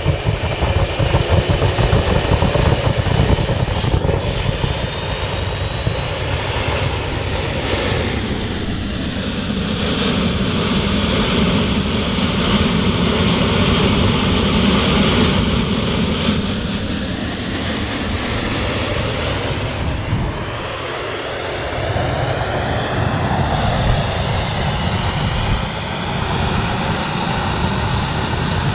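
Miniature turbine engine of an RC model jet whining. Its pitch rises steadily over the first several seconds as it spools up, then holds at a high, steady pitch over the rush of the exhaust.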